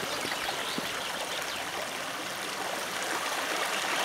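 A river flowing steadily: an even, continuous rush of water.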